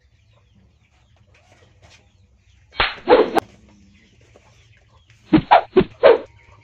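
Hen-like clucking: one cluck about three seconds in, then four quick clucks near the end, with near silence before them.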